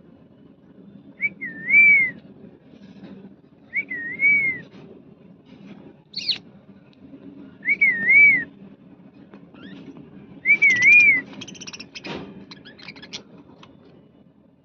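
A clear whistled phrase, a quick rise, dip and rise then fall, repeated four times a few seconds apart, around the pet budgies. One short, sharp falling chirp comes midway, and a few scratchy chirps follow near the end.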